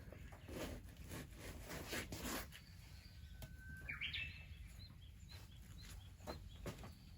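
A bird calling: a steady whistle about three seconds in that jumps up in pitch, then a run of short high chirps, two or three a second. Earlier there are bursts of rustling noise and a few sharp clicks.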